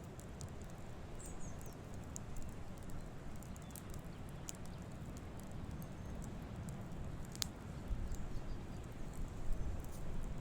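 Campfire crackling: scattered sharp snaps and pops over a steady low rumble, with one louder pop about seven seconds in.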